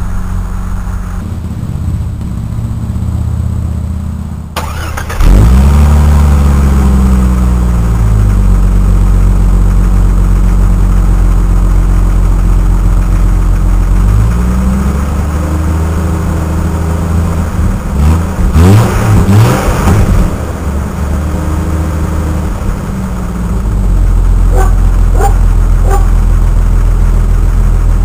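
1996 Jeep Grand Cherokee's 4.0-litre straight-six running, revved once about five seconds in and again around fourteen seconds, then blipped several times in quick succession near the twenty-second mark before settling back to a steady idle.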